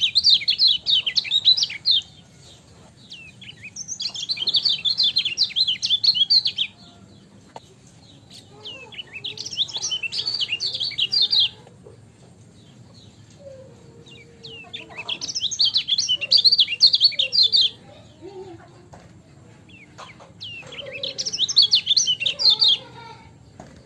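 A kecial kuning white-eye singing fast, high chirping phrases in about five separate bursts of two to three seconds each, with short pauses between them.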